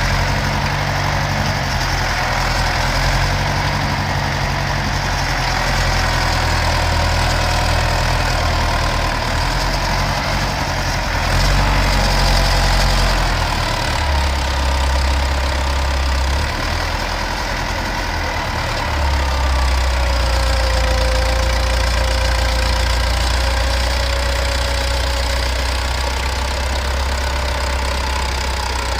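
County 764 tractor's diesel engine running under changing load while buckraking silage, its low engine note shifting a few times.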